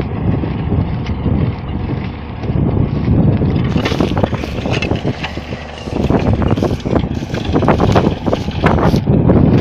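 A 150-horsepower Case tractor's engine running steadily under load while plowing, with wind buffeting the microphone. Many short clatters come through, thickest in the second half.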